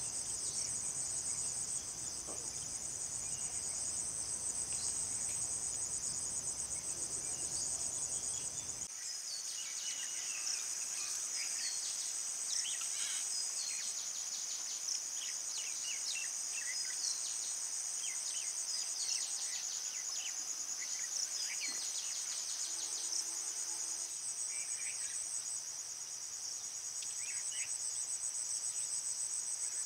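Steady, high-pitched trilling of a cricket chorus. From about nine seconds in, many short chirps of birds join it, and the low background noise cuts off abruptly.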